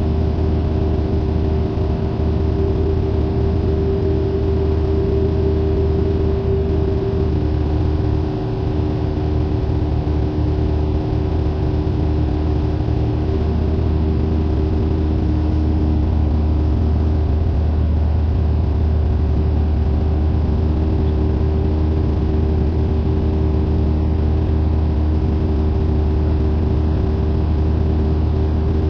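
Cessna 172N's four-cylinder Lycoming engine and propeller droning steadily, heard from inside the cabin; a few of its tones shift slightly about seven seconds in.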